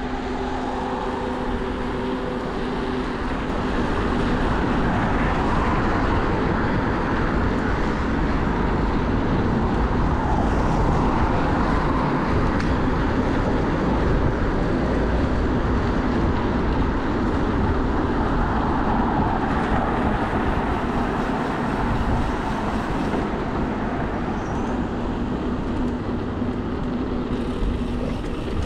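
Steady wind rush on the microphone of a moving bicycle, mixed with city road traffic.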